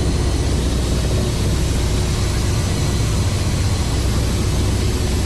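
Steady, loud, low vehicle rumble with a constant hum, unchanging throughout.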